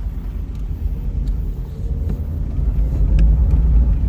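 Car travelling on the road: a steady low rumble of engine and tyres, with a few faint clicks.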